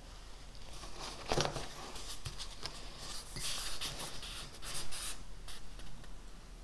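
Pen writing on paper in a run of short, scratchy strokes, with a single soft knock on the desk about a second and a half in.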